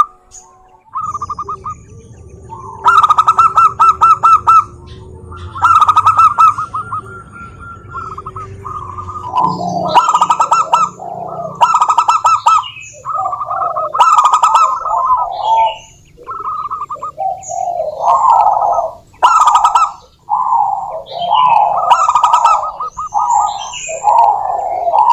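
Zebra doves singing: phrases of rapid, staccato cooing notes repeated again and again, with more calls overlapping from about ten seconds in.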